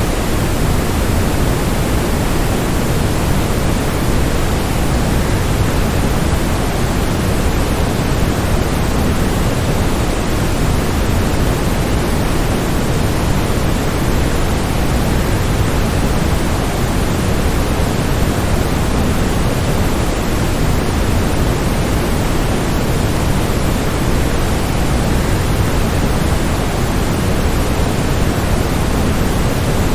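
Waterfall: a steady, unbroken rush of falling water, heaviest in the low end, with no changes or separate splashes.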